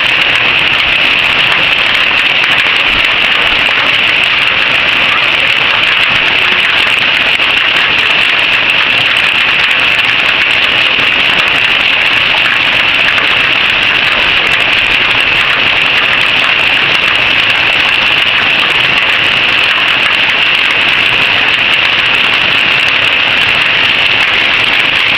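Hail falling heavily: a dense, steady patter of hailstones that keeps up without a break.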